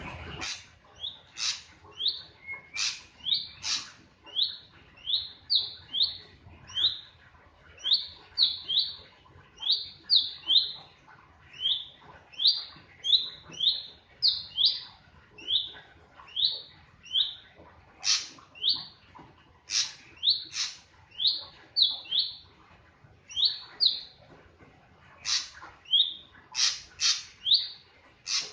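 A drongo calling: a long series of short, upward-curving chirps at about two a second, broken now and then by sharper, higher calls.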